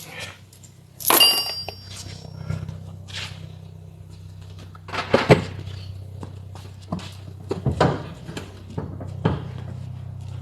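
Knocks and clunks from work on a car's rear seat: a metallic clank with a brief ring about a second in, then several sharp knocks further on, over a steady low hum.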